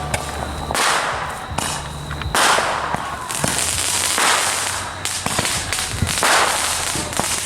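Consumer fireworks going off: a series of noisy bursts about every two seconds, with sharp cracks in between.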